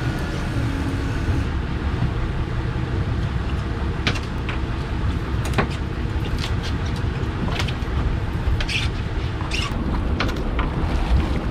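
Steady low rumble aboard a small fishing boat, motor and wind together, with a handful of sharp clicks and knocks scattered through the second half.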